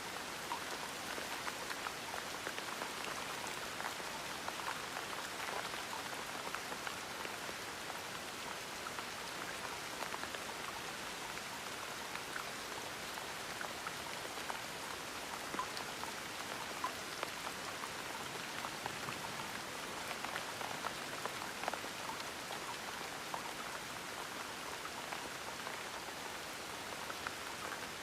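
Gentle rain falling steadily, an even patter of many small drops with brighter single drips ticking through it.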